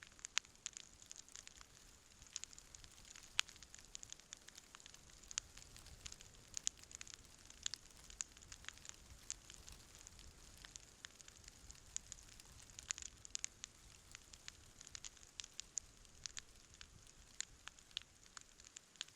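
Wood campfire burning and crackling, with frequent sharp, irregular pops and snaps over a faint steady hiss.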